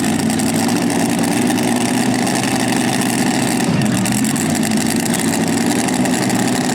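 Mini rod pulling tractor's engine running loud and steady, its pitch dipping and coming back up about four seconds in.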